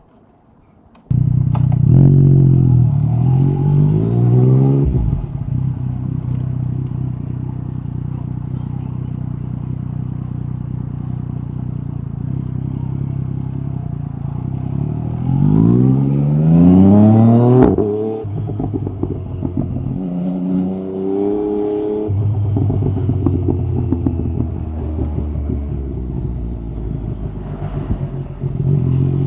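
Yamaha MT-09 SP inline-three running loud through an open Akrapovic carbon exhaust. It cuts in abruptly about a second in, then rises in pitch under acceleration and drops sharply at a shift. It runs at a steady pitch for a while, then pulls up again before another sharp drop, with shorter throttle changes near the end.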